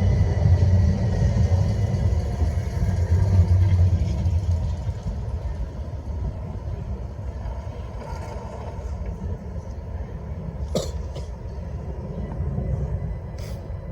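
A train rumbles through the station, loud for the first few seconds and then fading to a low steady rumble. There are two sharp clicks later on.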